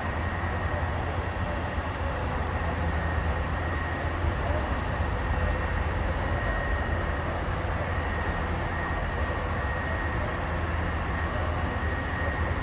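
Garbage truck's diesel engine running steadily, a low continuous rumble with a faint high tone above it.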